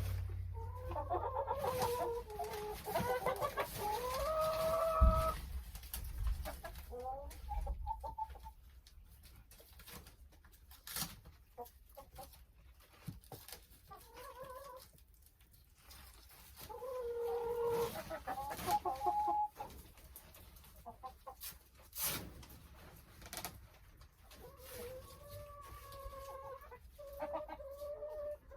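Domestic hens clucking and calling, in several drawn-out calls with pauses between them. A few short knocks are heard, the first about five seconds in.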